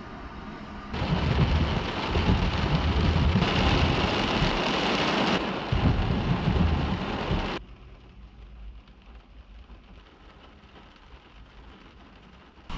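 Rain pelting a car's windscreen and roof, heard from inside the car. It comes down heavily from about a second in, then is suddenly much quieter for the last third.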